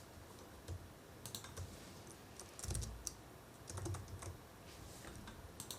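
Computer keyboard typing: faint, irregular keystrokes in short runs as a street address is typed into a web form.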